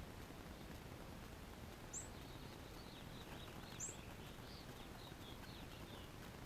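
Songbird calling: two sharp, very high chirps and a run of about a dozen quick high twittering notes, starting about two seconds in and stopping near the end, over a steady low background rumble.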